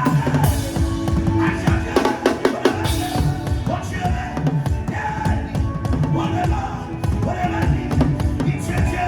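Drum kit played in a fast, busy rhythm over accompanying music with held notes.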